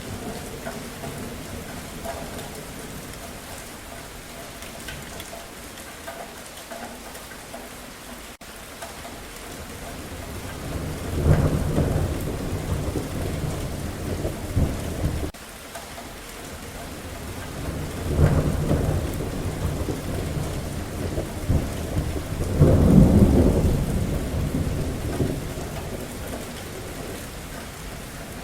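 Steady rain with three rolls of thunder rumbling in a little under halfway through, each lasting a few seconds, the last the loudest.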